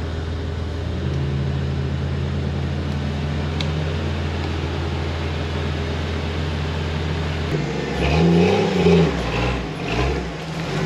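Lifted Jeep Cherokee off-road engine running at a steady low note, then revving up and down about eight seconds in as the Jeep crawls through deep mud close by.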